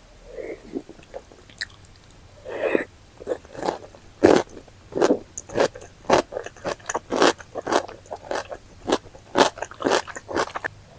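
Close-miked mouth sounds of someone eating spicy chicken and intestine stew. The biting and chewing start soft, then about three seconds in turn into a steady run of sharp chews, roughly two a second.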